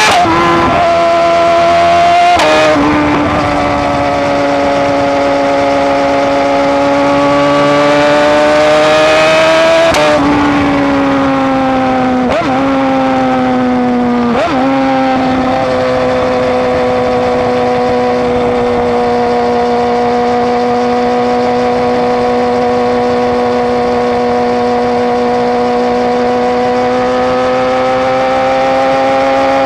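BMW S1000RR inline-four running through an Austin Racing exhaust under way, changing gear five times in the first half with quick sharp breaks in the engine note, as a quickshifter makes them. For the second half it holds a steady, unchanging pitch.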